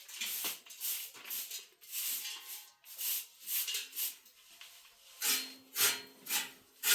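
A series of short scraping, rustling strokes, about one or two a second, sharper and louder in the last two seconds.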